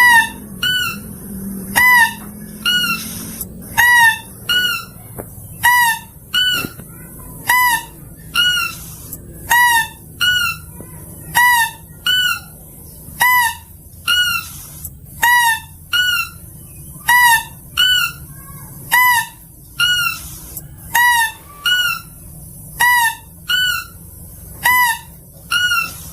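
Lure recording of a lesser mouse-deer (kancil) calling: a short, squeaky, nasal call with a quick hook in pitch, repeated evenly about once a second, over a faint low hum.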